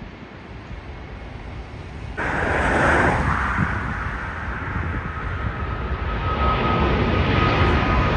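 Jet airliner engines roaring, jumping louder about two seconds in, with a steady high engine whine coming in about halfway. Wind buffets the microphone underneath.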